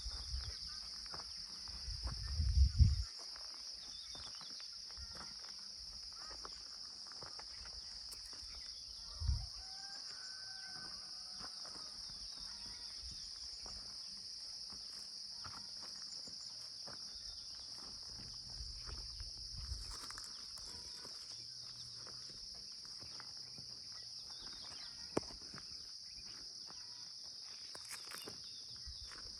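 Insects chirring in a steady, high-pitched drone, with a few low thumps, the loudest about two to three seconds in.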